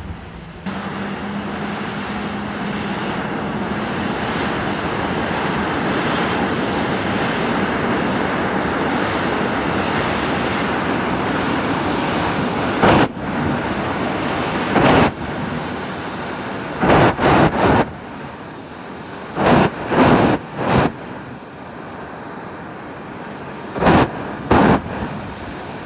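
A vehicle engine running hard with a steady roar, then from about halfway on a series of short, loud blips of revving.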